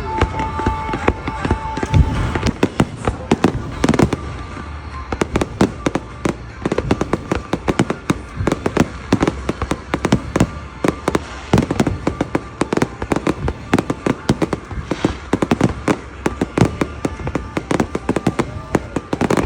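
Fireworks going off: heavy booms about two and four seconds in, then a dense run of rapid cracks and bangs.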